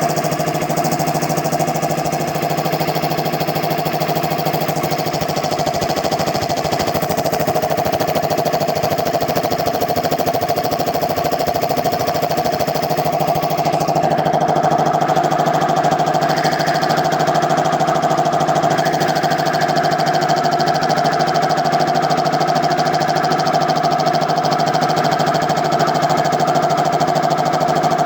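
10 hp air compressor with a newly fitted piston compressor head, running steadily under test: a continuous mechanical hum and drone. It gets a little louder about halfway through.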